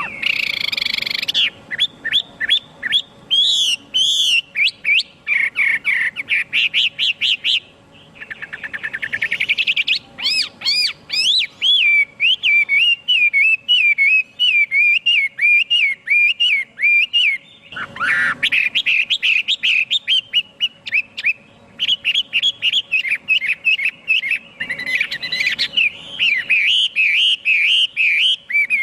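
A Chinese hwamei singing a long, varied song of rapid whistled notes, slurs and trills, almost without pause.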